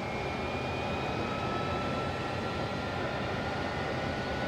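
Jet engine running, a steady rush with a whine that slowly rises in pitch.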